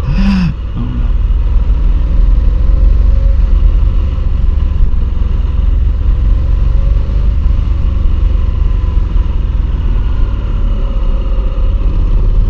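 Motorcycle being ridden at road speed, its engine running steadily under a heavy low rumble, with the engine note shifting slightly in pitch.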